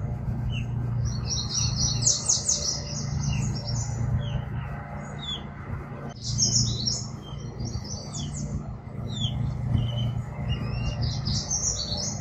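Small songbirds chirping and singing in three bursts of rapid high twittering, with short single chirps between them, over a steady low hum.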